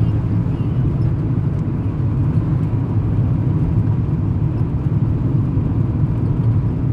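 A car driving along the road: a steady low rumble of engine and road noise with no break.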